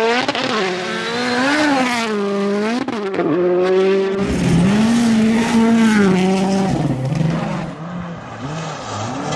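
Rally car engines at full competition pace, revving hard up and dropping sharply through gear changes, with a few sharp cracks about three seconds in. The engine sound changes abruptly twice, as if cutting between different cars.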